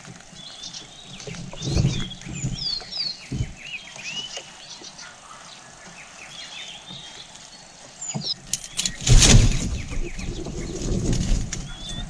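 Birds chirping in short high notes, over rustling and soft knocks of twigs and feathers at the nest. A loud burst of rustling comes about nine seconds in.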